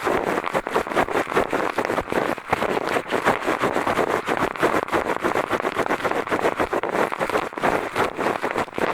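Ear-cleaning ASMR: a pair of eyeglasses used as an ear pick, scratching and rustling close against a microphone's ear in a dense, rapid, continuous stream of tiny scrapes and clicks.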